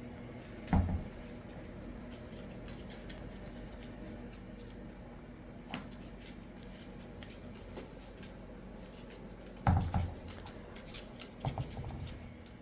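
A parrot knocking a dog's ball around: a dull thump about a second in and several more near the end, with faint light tapping in between.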